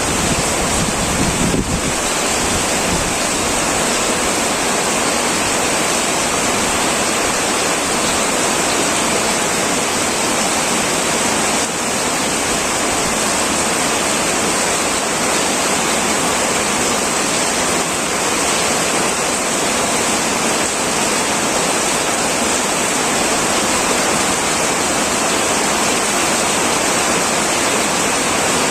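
Heavy rain falling steadily on an old tin roof, a dense, even wash of drops with no breaks.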